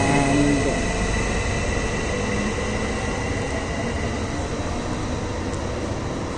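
Electric commuter train at the station platform: a steady rumble with a high whine that fades away about a second in, the whole sound slowly growing quieter.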